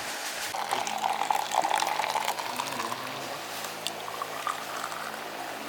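Liquid being poured into a container, loudest for the first couple of seconds, its pitch creeping slowly upward as the pour goes on, with scattered small clicks.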